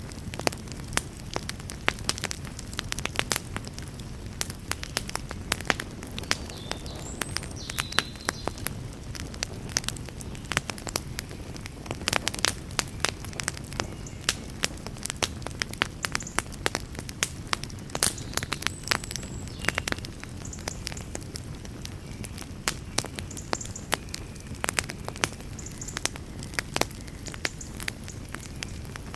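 Wood campfire crackling, with many irregular sharp pops and snaps over a steady low rush.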